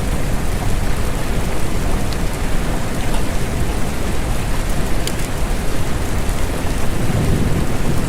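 Steady rain falling, heavy in the low end, with a few sharp single drop ticks now and then.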